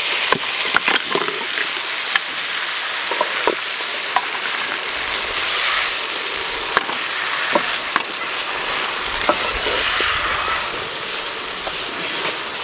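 Chopped cabbage sizzling as it fries in hot oil and spice in a metal pot. A wooden spatula scrapes and knocks against the pot as it is stirred, with scattered sharp knocks over the steady hiss.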